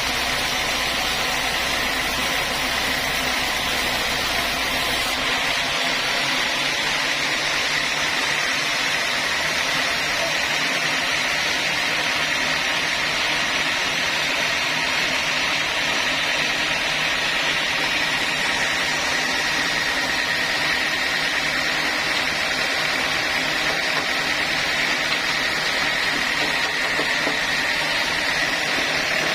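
Sawmill saw machinery running steadily, a continuous mechanical noise with a steady high whine; the deep rumble underneath drops away about five seconds in.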